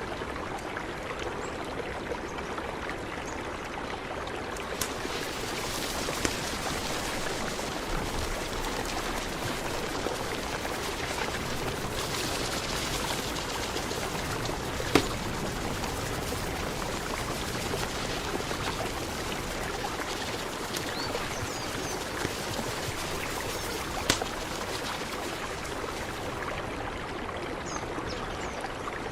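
Mountain river flowing steadily, an even rush of running water, with a few sharp clicks, the loudest about halfway through.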